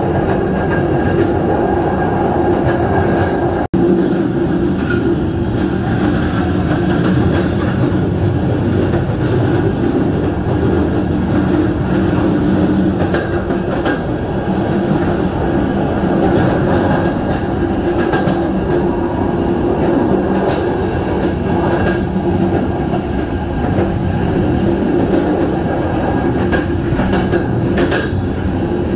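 Passenger train running along the track: a steady rumble of wheels on rails with a constant hum over it, broken once by a momentary gap about four seconds in.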